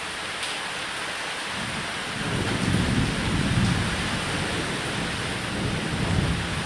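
Steady heavy rain on a roof, with thunder rumbling low, swelling about two seconds in and again near the end.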